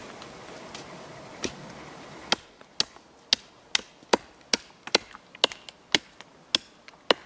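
A tool striking wood again and again, as in chopping or hammering during work on a wooden frame: sharp knocks about two a second, starting about two seconds in after a quieter stretch with a single knock.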